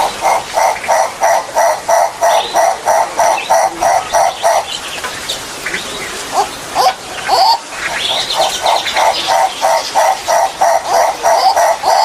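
Turaco calling: a long series of quick, evenly repeated notes, about three a second, breaking off about five seconds in and starting up again a couple of seconds later.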